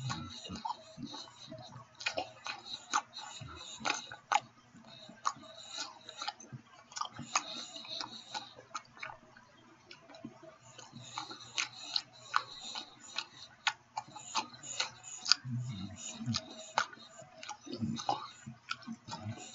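Close-up chewing and lip-smacking of a man eating a steak sandwich: irregular wet clicks and smacks from the mouth, with no even rhythm.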